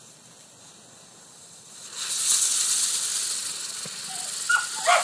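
Lit firework going off with a sudden loud hiss about two seconds in, spraying steadily and easing slightly. Near the end, short repeated pitched calls start up.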